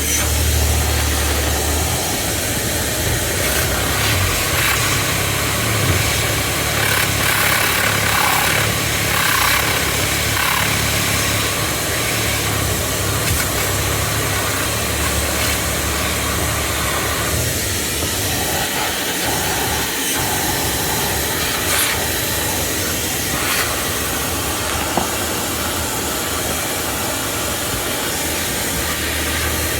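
A motor running steadily: a low hum under a constant hiss.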